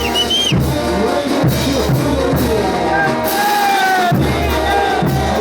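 Bolivian brass band playing ch'uta dance music: loud and continuous, with melody lines over a steady bass and drum beats.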